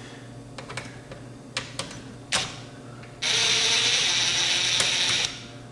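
A few small clicks and knocks, then a cordless impact driver in screwdriver mode runs steadily for about two seconds as a screw is backed out of the receiver's chassis.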